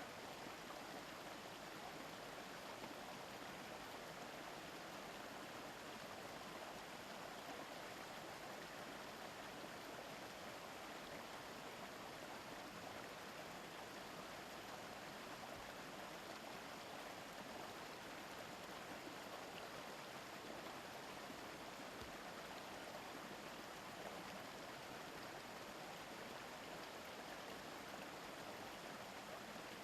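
Steady murmur of a shallow forest river flowing over stones, unbroken throughout.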